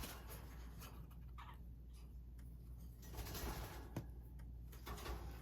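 Paper ephemera being handled on a craft table: faint rustling of paper pieces, with a single light tap about four seconds in.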